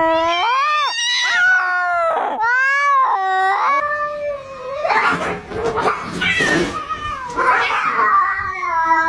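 Cats yowling in a fight: long, wavering howls that rise and fall in pitch, turning harsher and noisier about halfway through before going back to drawn-out wails.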